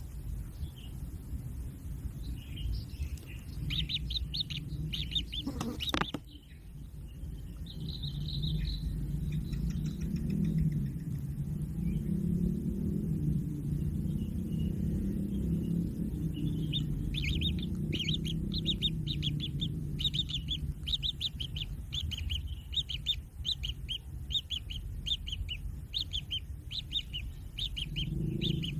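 Kingfisher chicks calling in quick runs of high, repeated chirps, with a long unbroken run through the second half. A steady low rumble runs underneath, and there is a single knock near the start.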